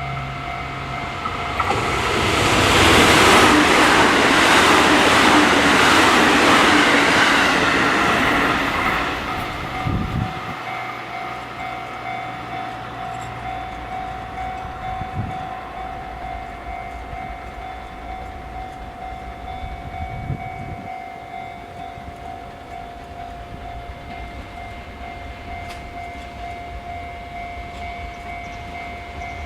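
JR Freight EF210 electric locomotive hauling a freight train past: a loud rush of noise builds about two seconds in and eases off by about ten seconds. The wagons keep rolling by with rail clatter, a few low thumps and a steady high tone.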